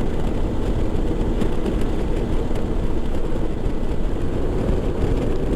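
Motorcycle riding along a highway: engine running steadily under heavy wind noise on the microphone.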